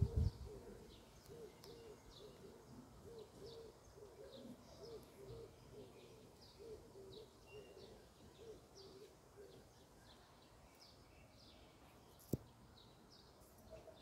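Faint birdsong: small birds repeat high, downward-sliding chirps over a lower call that repeats about twice a second and stops after nine or ten seconds. A brief low thump comes at the very start, and a single sharp click about twelve seconds in.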